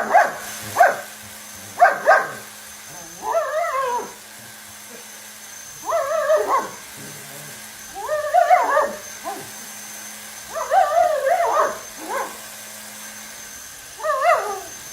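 A dog giving a string of pitched, wavering vocal calls: two short yelps right at the start, then longer calls that rise and fall, repeated about every two seconds.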